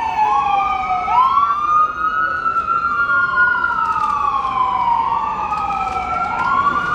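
Two emergency-vehicle sirens wailing together, out of step, each slowly falling and then rising again in pitch in a cycle of about five seconds.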